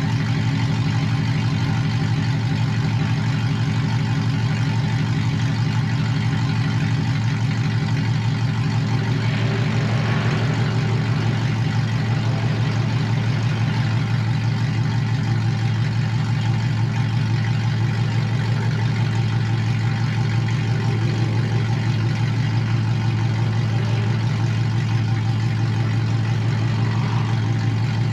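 Pickup truck engine idling steadily after a cold start, having sat for about four days.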